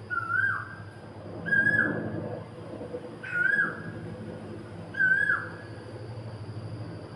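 A bird calling: a whistled note repeated four times, about every one and a half seconds, each note held briefly and then dropping sharply at the end. A steady low hum runs underneath.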